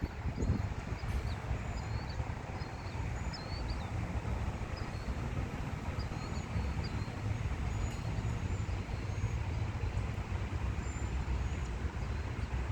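Steady low outdoor rumble with small birds chirping faintly throughout, short high calls every second or so.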